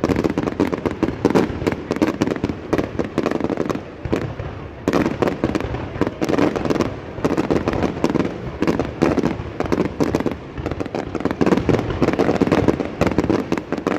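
Fireworks going off in quick succession: a dense, continuous run of bangs and crackles, with a short lull about four seconds in.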